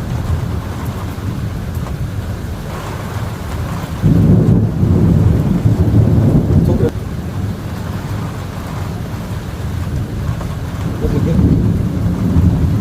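Thunder rumbling over a steady hiss of storm noise. A loud, low thunderclap breaks in suddenly about four seconds in and rumbles for about three seconds, and more rumbling builds near the end.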